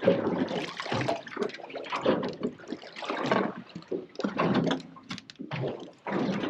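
Water splashing and sloshing in irregular surges beside a small fishing boat.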